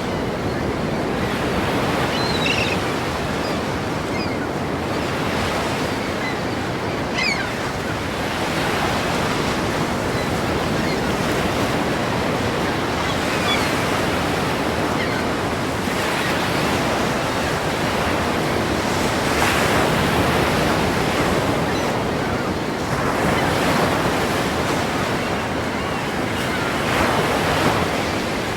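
Ocean surf breaking against a pier: a steady wash of waves that swells several times as bigger waves crash in.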